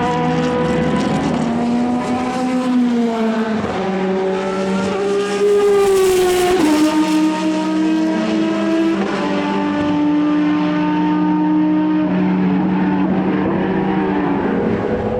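Racing car engine pulling hard through the gears: the pitch climbs and then drops at each upshift, about four shifts in all, loudest around the middle as the car passes closest.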